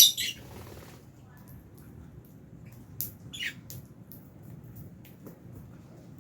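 Lovebirds chirping and squawking. A loud sharp call comes right at the start and two more about three seconds in, the second falling in pitch, with faint quick chirps between.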